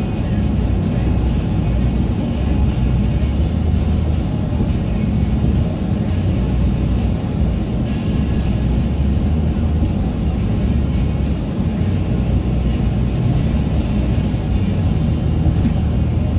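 Steady low rumble of road and engine noise inside a moving car's cabin, picked up by a dashboard-mounted phone.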